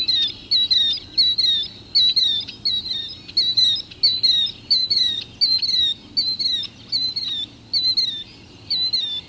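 Killdeer giving its territorial call: high, shrill two-note calls repeated over and over at about one and a half a second.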